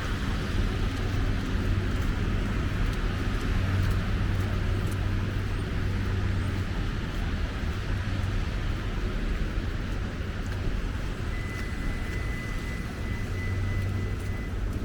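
City street traffic: a steady low rumble of passing vehicles. A thin, steady high tone joins in for about three seconds near the end.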